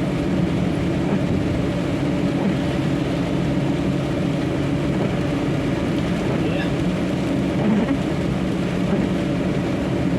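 Truck's diesel engine running steadily at cruising speed, heard from inside the cab, over a constant hiss of tyres on a rain-wet road.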